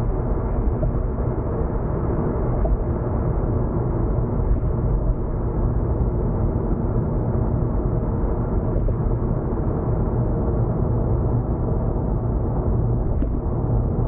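Steady inside-the-car road noise of a car at expressway speed: a deep rumble of tyres on the road with engine drone, and a light click near the end.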